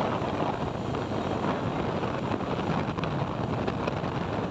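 Steady wind rushing over the microphone of a moving motorcycle, mixed with its engine and road noise.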